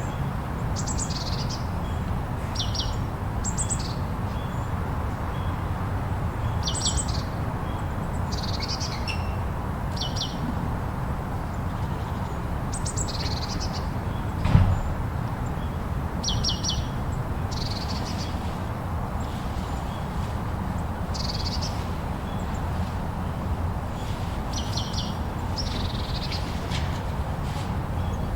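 Small birds chirping in short, quick, high-pitched clusters every second or two, over a steady low rush of blizzard wind. One sharp knock about halfway through.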